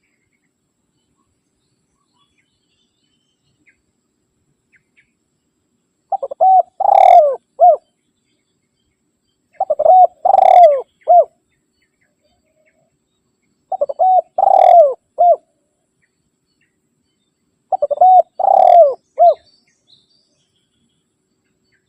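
Spotted dove (tekukur) cooing its rival-challenge call: starting about six seconds in, four similar phrases about four seconds apart, each a few short notes, a longer falling coo and a short closing note.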